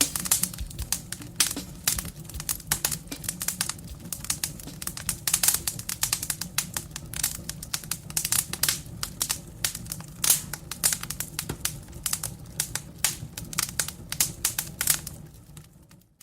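Wood fire crackling in a fireplace: a dense, irregular run of sharp snaps and pops over a low steady rumble, fading out about a second before the end.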